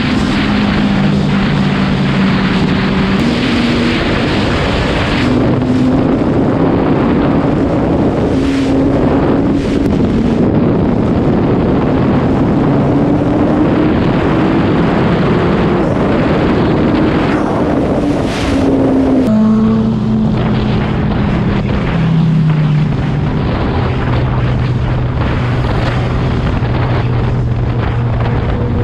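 Suzuki Hayabusa's inline-four engine running at road speed, its pitch climbing slowly as the bike accelerates. About two-thirds of the way through the pitch drops sharply, as with a gear change, and it settles lower and steady. Wind rushes over the microphone throughout.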